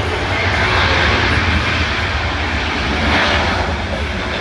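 Jet aircraft engines at full power, a loud, steady rush of jet noise with a deep rumble underneath that swells a couple of times.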